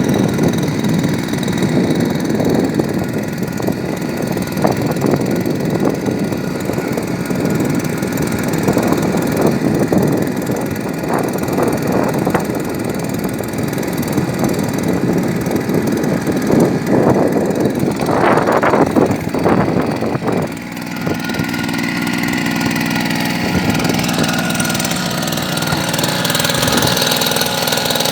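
Small grass-cutter engine driving a small boat, running rough and uneven. About twenty seconds in, it dips briefly, then settles into a steadier idle.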